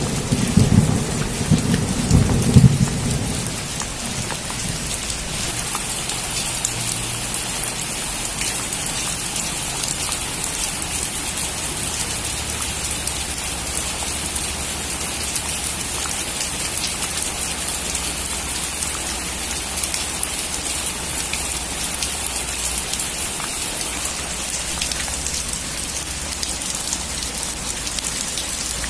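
Steady rain, with a rumble of thunder that swells twice and dies away over the first few seconds.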